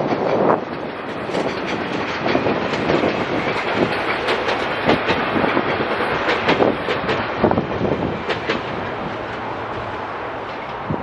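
SEPTA Silverliner V electric multiple-unit commuter train passing, its wheels clicking over the rail joints, the sound easing off near the end.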